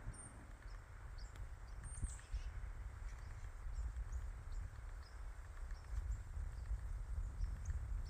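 Faint, short high bird chirps repeating about once or twice a second over a steady low rumble.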